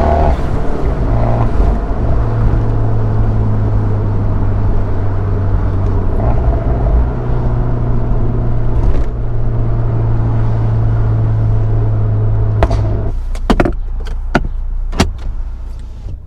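Abarth 124 Spider's turbocharged 1.4-litre four-cylinder running hard through a Ragazzon exhaust, holding a steady note. About thirteen seconds in, the throttle closes and the engine note drops away, followed by several sharp exhaust pops on the overrun.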